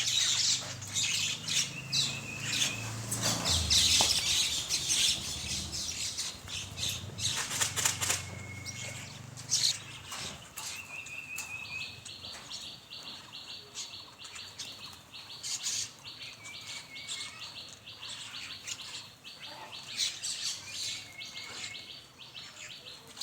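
A flock of mynas calling and chattering, with short repeated chirps and fluttering wings. A low rumble sounds underneath for the first several seconds, and a steady, fast, high trill joins about ten seconds in.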